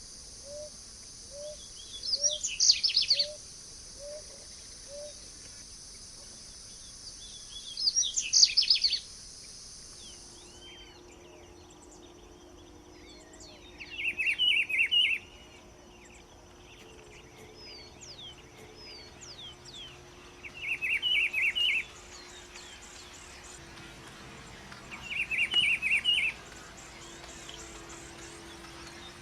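Wild songbirds singing, from two different recordings. First come two loud phrases of fast sweeping notes about six seconds apart, over a steady high insect-like hiss, with a run of soft low notes between them. Then, after the recording changes, a bird repeats a short trilled phrase about every five seconds amid fainter calls.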